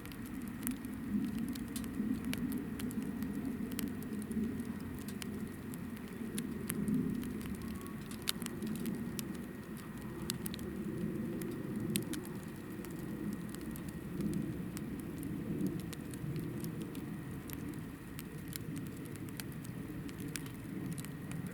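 Hinoki firewood burning in a campfire: a steady low rumble from the flames with frequent, irregular sharp crackles and pops.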